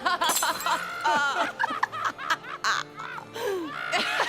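Cartoon characters laughing and snickering over background music.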